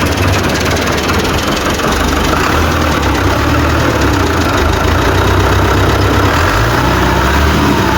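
Tractor's diesel engine running steadily at idle, loud and low-pitched.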